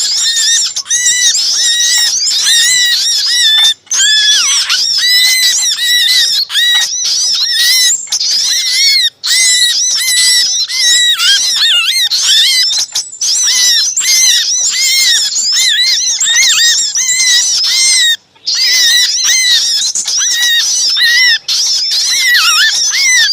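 Bird-lure recording of many small birds calling at once: dense, overlapping, high-pitched chattering and squealing alarm and distress calls of agitated and trapped birds, used to draw other small birds in. The calls run on with only a few brief breaks, about four, nine and eighteen seconds in.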